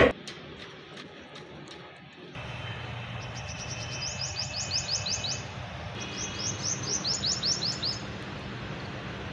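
A sharp knock at the very start. Then a small songbird sings two quick runs of high chirps, each about ten notes long, over a faint steady low hum.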